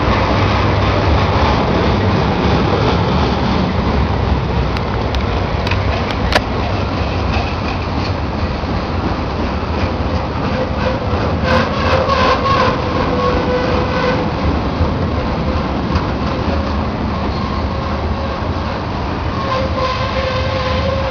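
Freight train rolling past: a diesel locomotive's rumble, then a long string of loaded steel gondola cars, their wheels clacking over rail joints. A metallic squeal comes in about halfway through and again near the end.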